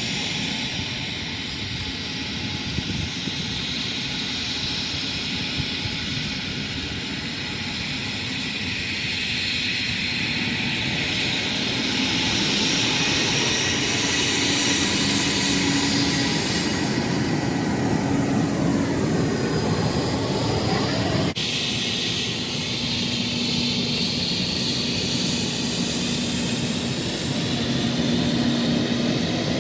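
Airliner engines roaring steadily as a plane takes off or lands close by, growing slowly louder. The sound breaks off abruptly about two-thirds of the way through, then the roar carries on.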